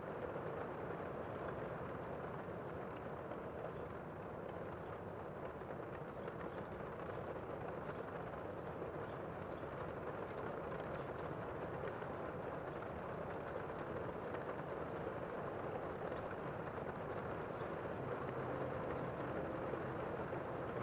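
Steady outdoor wash of road traffic and rain, with faint scattered drip ticks; a vehicle engine hum comes in near the end.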